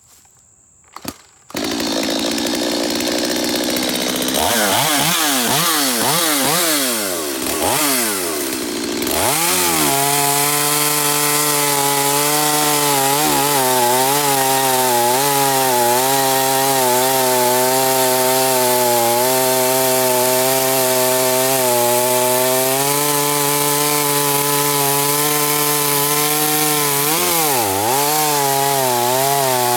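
Stihl MS250 two-stroke chainsaw with an 18-inch bar and a sharpened, worn-out old chain, coming in suddenly about a second and a half in, revving up and down several times, then running steadily under load as it cuts through dry ash. Its pitch dips briefly near the end.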